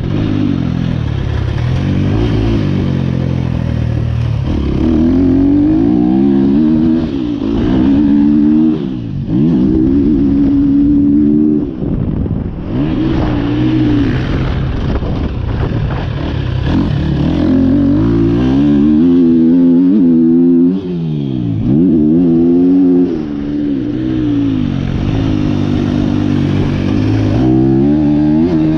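Single-cylinder four-stroke engine of a KTM 250 SX-F motocross bike running through an Akrapovic Evolution Line exhaust, revving hard and rising and falling in pitch over and over as the throttle is opened and closed and the gears change around the track. The engine note dips sharply a few times when the throttle is chopped.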